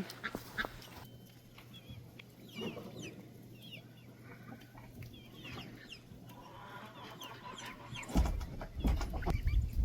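A flock of chickens clucking and peeping with short calls throughout, over a steady low hum. Near the end a loud low thumping rumble comes in for about two seconds.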